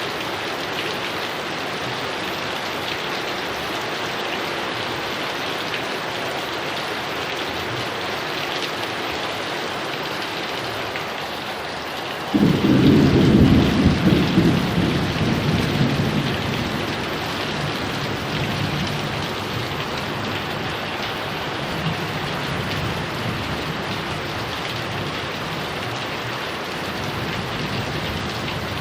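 Heavy rain falling steadily, with a sudden clap of thunder about halfway through that rumbles on and fades over several seconds.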